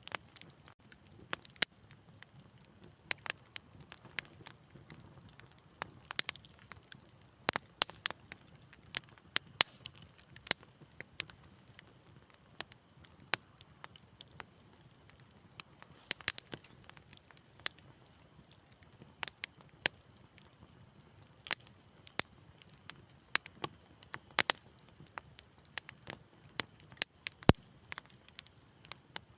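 Wood fire crackling: irregular sharp pops and snaps, several a second at times, over a soft steady hiss of burning.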